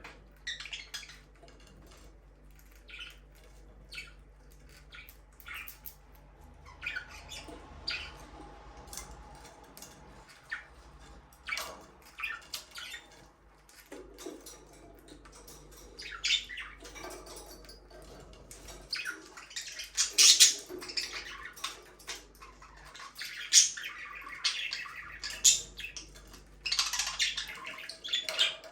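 Pet budgerigars chirping and squawking in a string of short, irregular calls, louder in the second half.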